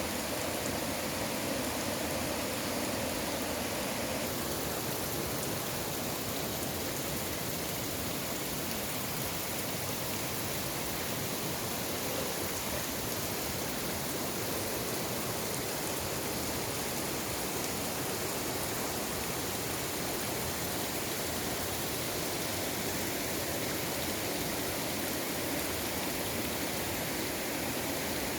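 Mountain valley stream rushing steadily over rocks, a continuous even wash of water noise.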